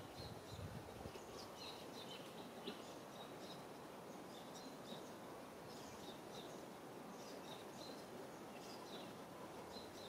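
Faint outdoor ambience: a steady low hiss with birds chirping in many short, high notes throughout.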